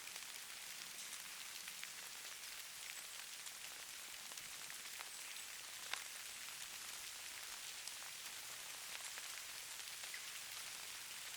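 Steady hiss of falling precipitation pattering on a surface, with scattered small drop ticks and one sharper tick about six seconds in.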